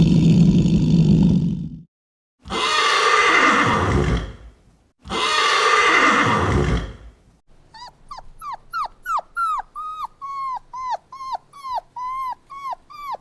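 Animal calls: three loud, rough, breathy calls, then a run of short, high cries, each falling in pitch, repeated about twice a second.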